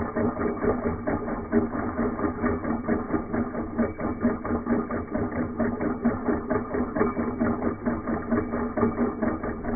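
Small alcohol-fired Stirling hot air engine running steadily, its piston and flywheel mechanism beating in a quick, even rhythm of about five strokes a second.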